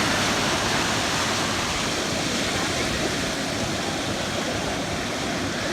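Ocean surf rushing steadily, easing off a little toward the end.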